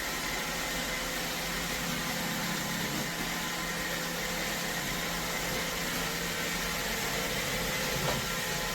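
iRobot Roomba Vac Essential (Q0120) robot vacuum running: a steady whir with a faint constant whine.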